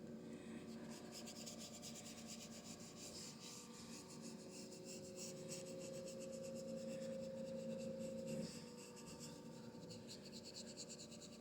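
Paintbrush scrubbing acrylic paint onto canvas in quick, short strokes, a faint dry rubbing, blending the colours together. A faint steady hum lies beneath, and part of it stops about eight and a half seconds in.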